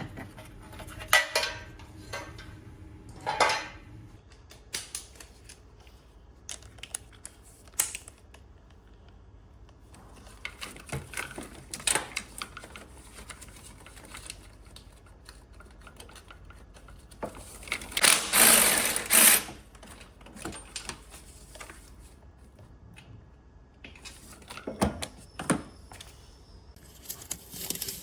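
Intermittent clicks, knocks and clatter of objects being handled, with a louder, longer scraping burst about two-thirds of the way through.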